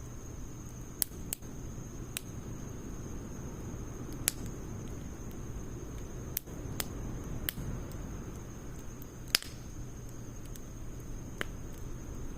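Wood fire in a Snow Peak fire pit crackling: a steady low rush of flames with sharp, irregular pops, about nine of them, the loudest about nine seconds in.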